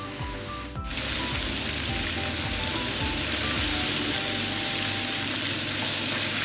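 Bow-tie pasta and mixed vegetables sizzling in a hot pan as a spatula stirs them together; the sizzle grows louder about a second in. Background music plays underneath.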